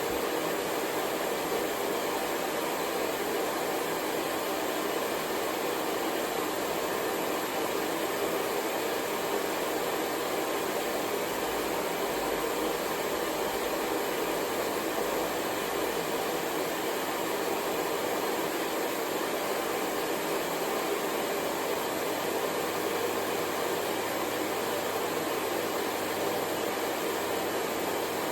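Hair dryer running steadily, a continuous rushing noise with a faint low hum and no change in level.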